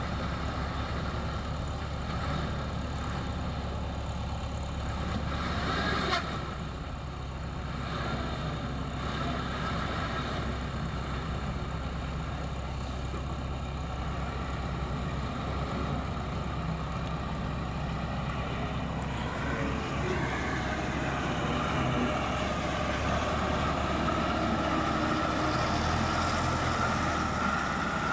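Heavy diesel engine running steadily, with a sharp knock about six seconds in and a few lighter knocks after it. From about twenty seconds in the engine rises in pitch and gets louder, as under load.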